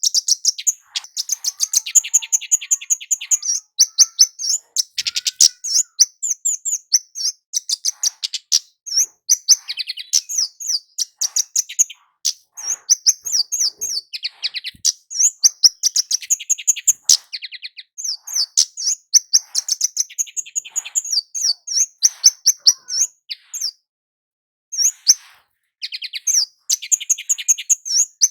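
Kemade jawa (flowerpecker) in full song: a fast, almost unbroken string of high, sharp chirps and trills, with a short pause near the end.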